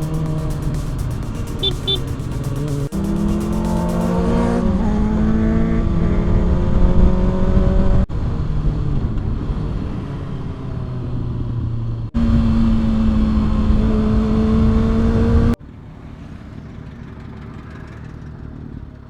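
Kawasaki ZX-6R's inline-four engine running under way, its note climbing in pitch under throttle. The note jumps abruptly a few times, and near the end it is quieter.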